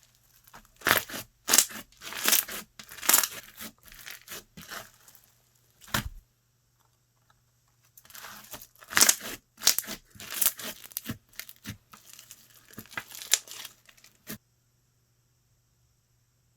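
Slime being worked by hand, stretched, pressed and pulled, giving crackly tearing and crinkling sounds in repeated bursts. There is a short pause about six seconds in, and the sound cuts off abruptly near the end.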